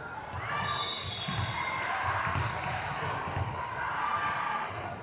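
A ball bouncing on a gym floor, dull thuds about once a second, over the chatter of voices echoing in the hall.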